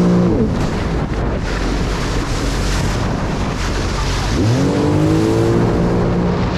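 Jet ski engine easing off from high revs, then the rush of wind and water, then the engine revving up again about four and a half seconds in and holding at a steady pitch.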